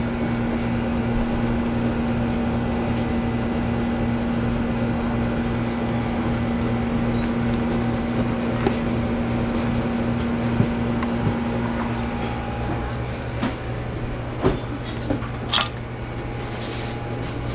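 A steady mechanical hum with fixed tones. Its higher tone drops out about twelve seconds in, and a few light knocks come near the end.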